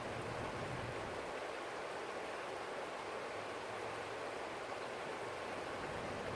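Forest stream running over rocks: a steady, even rush of flowing water. A faint low rumble underneath drops away about a second in and returns near the end.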